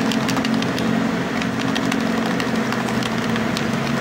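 A capped bottle of paint and thinner being shaken to mix, giving rapid, irregular sharp clicks and rattles. A steady low engine hum runs underneath.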